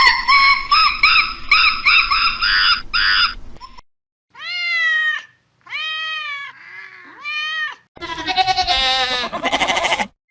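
A series of animal calls: a run of quick, high squeaky calls, then after a brief pause three long arching calls, and near the end a different, quavering call.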